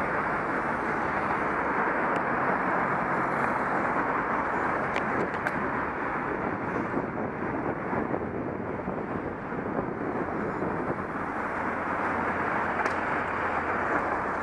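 Steady wind and road noise on a helmet camera while riding in traffic, with a low engine hum underneath during the first few seconds and a few faint clicks about five seconds in.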